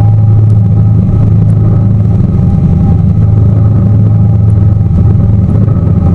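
Tour boat's engine running steadily at cruising speed, a loud, even drone with a low hum and a couple of steady higher tones.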